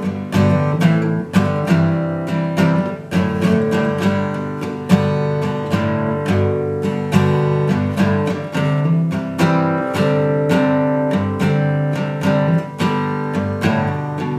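Acoustic guitar strummed and picked in a steady rhythm, an instrumental break between sung verses.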